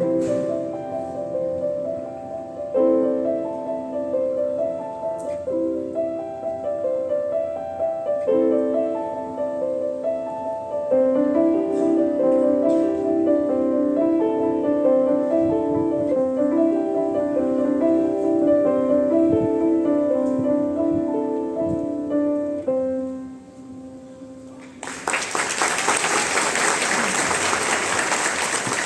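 Solo piano playing a gently repeating broken-chord figure, ending on a held low note that dies away; about two seconds later applause breaks out and carries on.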